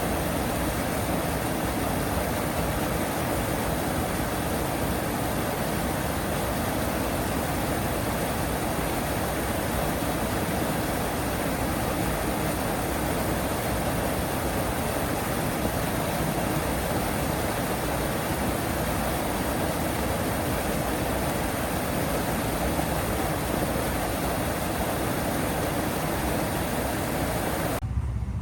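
Steady outdoor rushing noise with no distinct calls, even throughout; shortly before the end it switches abruptly to a lower rumble with the hiss gone.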